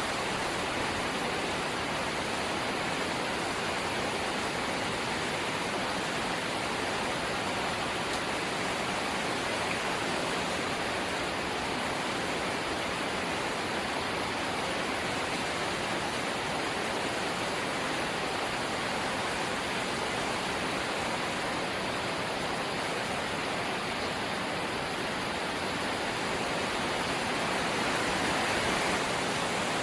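Light rain falling, a steady even hiss with no single drops or other events standing out.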